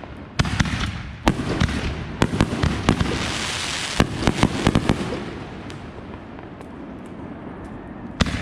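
Consumer fireworks going off in quick succession: a string of sharp bangs with a burst of crackling in the middle, thinning out after about five seconds, with two more bangs near the end.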